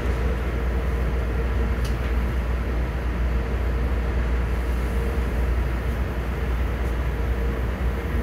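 MARC commuter train running at speed, heard from inside the passenger car: a steady low rumble of wheels on rails with a faint steady hum and a couple of light clicks.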